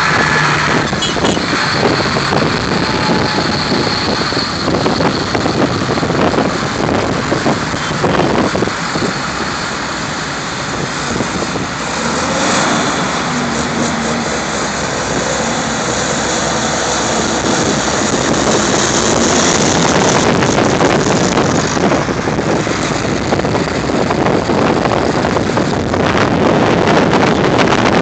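Vintage tractor engines running as the tractors pull out of a field, with the engine note shifting up and down now and then.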